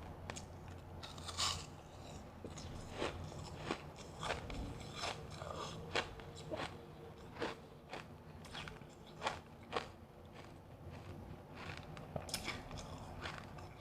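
Close-miked crunching of refrozen powdery freezer ice being bitten and chewed, a string of irregular crisp crunches with a loud crack about six seconds in.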